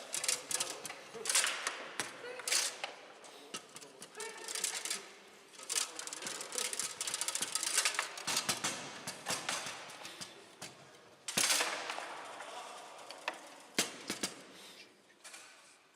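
Foosball play on a Bonzini table: irregular rapid clacks and knocks of the ball struck by the figures and the rods, with a few sharper, louder hits. Faint voices underneath.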